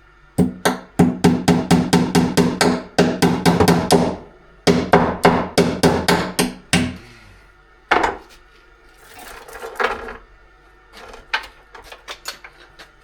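Rapid hammer strikes on metal, about four a second, with a ringing tone. They come in two runs of several seconds with a short break between, from hammering through the rivets of a chainsaw chain to cut it to length. Near the end there is a single knock, then a light rattle and small metal clicks.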